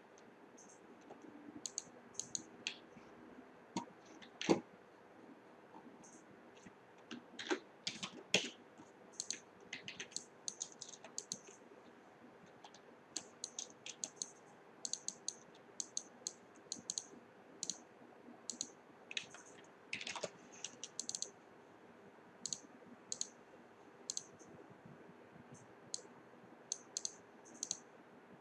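Irregular light clicks and taps of small hard objects being handled, with a few louder knocks scattered among them.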